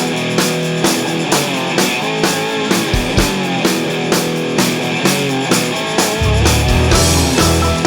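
Rock band playing an instrumental passage: electric guitar lines over drums keeping a steady beat of about two strokes a second. A heavy low bass part comes in about six seconds in.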